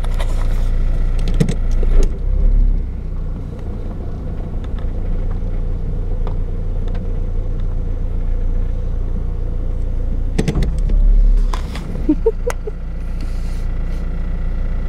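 Car engine idling, heard from inside the cabin as a steady low hum, with a few clicks and two heavier low thumps about two seconds in and again around ten to eleven seconds.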